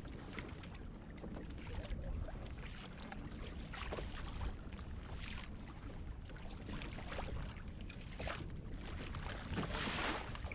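Water splashing and lapping against a kayak, in short irregular splashes over a steady low rumble, with a louder splash near the end.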